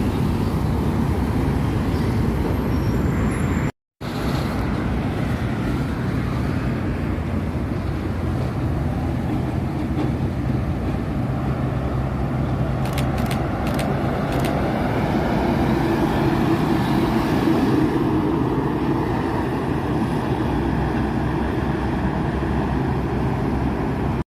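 Roadside traffic, with large vehicles such as trucks and buses driving past, their diesel engines running with a steady low hum. The sound cuts out for a moment about four seconds in, and a few sharp clicks come a little past the middle.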